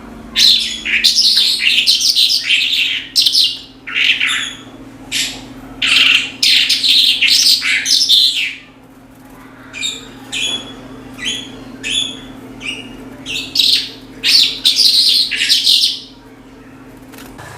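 Javan bush lark (branjangan) singing continuously in long, rapid, varied phrases of high chirps and trills, with a short pause about halfway and then shorter chirps before the full song resumes. A faint steady low hum runs underneath.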